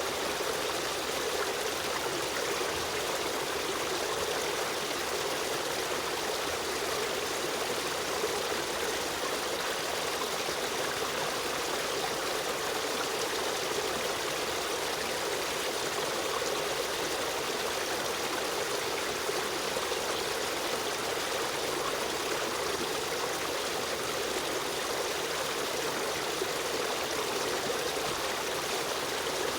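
Stream water running and trickling steadily over rocks, an even rushing with no breaks.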